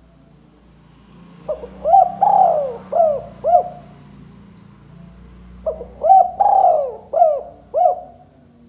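Spotted dove (tekukur) cooing: two phrases of about five short notes each, a couple of seconds apart. This is the 'kuk 2' call type that Indonesian keepers use as a lure call.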